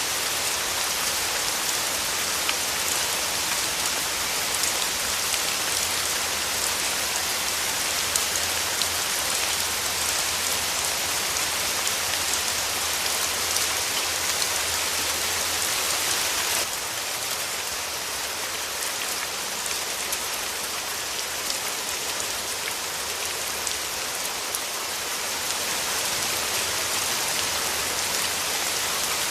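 Steady rain falling, with a fine patter of drops through the rushing hiss. The level dips suddenly a little past halfway and builds back up near the end.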